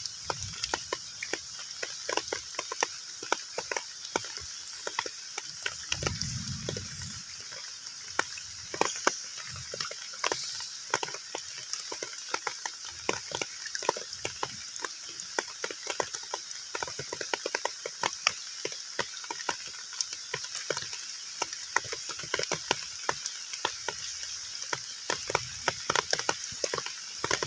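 Heavy rain falling on a pond: a steady hiss with many irregular drops plinking and splashing on the water surface.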